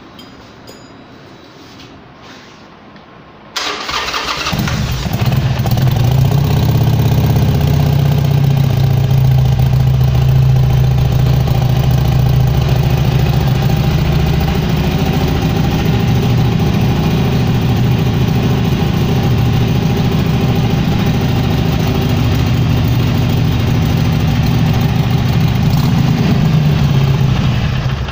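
Harley-Davidson V-twin motorcycle engine, fitted with aftermarket exhausts, started about three seconds in and then idling steadily and loudly.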